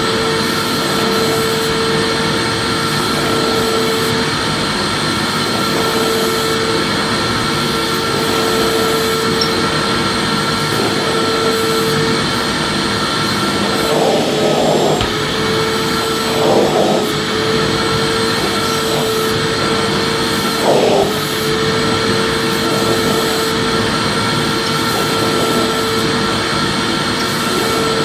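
Vacuum cleaner running steadily, a continuous rushing noise with a steady motor hum, with a few brief swells in the airflow about halfway through and again near the end of the middle stretch.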